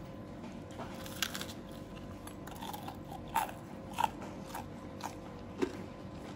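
Crunchy biting and chewing of crispy boneless fried chicken, with a few sharp crunches a second or two apart.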